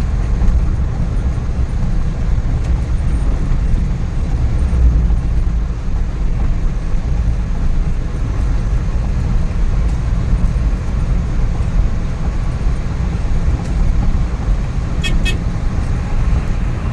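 Inside the cab of a Suzuki DA64V van cruising on its freshly rebuilt K6A three-cylinder engine: a steady low drone of engine and road noise. A brief high-pitched toot sounds about two seconds before the end.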